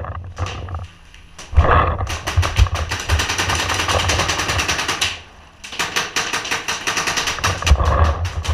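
Paintball markers firing in rapid strings of shots, one long burst for about three seconds, a brief pause, then another long burst.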